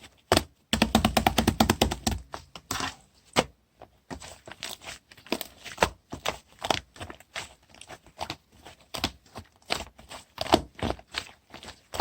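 Hands squishing and pressing clay-mixed slime, making sticky clicks and pops. A fast run of them comes in the first couple of seconds, then two or three a second.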